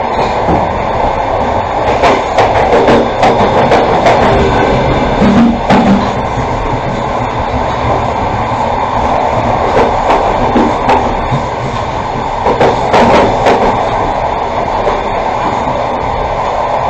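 Passenger train running along the track, heard from on board: a steady rumble of wheels on rails, with clusters of sharp clicks from the wheels crossing rail joints about two to six seconds in and again near the end.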